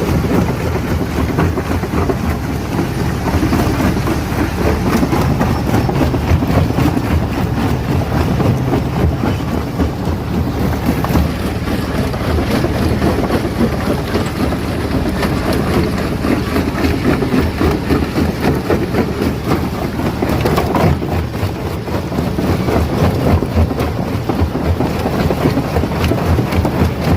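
Stone crusher breaking rock, a loud continuous rumble packed with rapid small knocks and rattles that never lets up.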